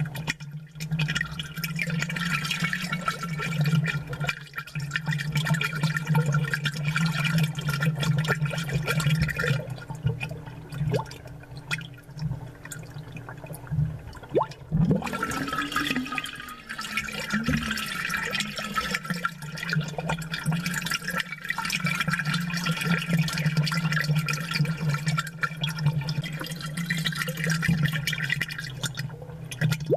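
Aquarium water bubbling steadily over a low, steady hum, picked up close and amplified. The bubbling thins out for a few seconds about halfway through, then picks up again.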